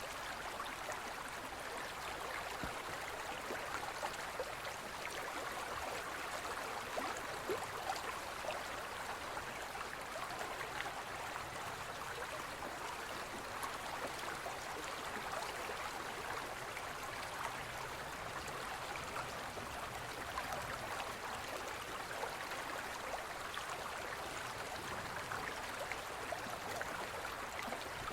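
Forest stream flowing over rocks: a steady rush of water with small splashes and gurgles.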